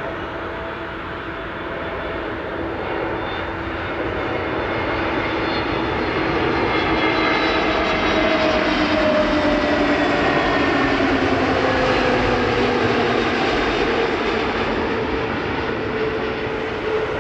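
Passenger jet airliner flying past on its landing approach. Its engine noise swells over the first several seconds and peaks about halfway through, while the engine whine slides steadily down in pitch as it passes.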